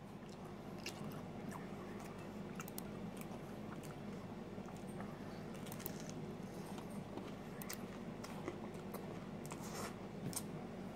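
Faint biting and chewing of a slice of frozen deluxe pizza with a slightly overdone crust: small scattered crunches and mouth clicks over a steady low room hum.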